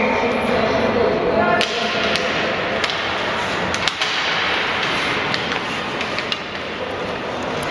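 Ice rink game noise: a steady scraping hiss with a scatter of sharp clacks, typical of hockey sticks striking the puck and each other. Voices call out briefly at the start.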